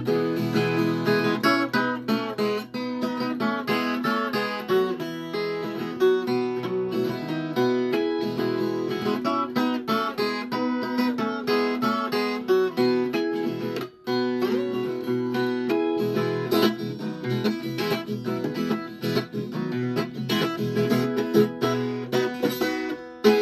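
Viola caipira, the Brazilian ten-string folk guitar, played solo in an instrumental passage: a running melody of plucked notes over strummed chords, with a brief break about fourteen seconds in.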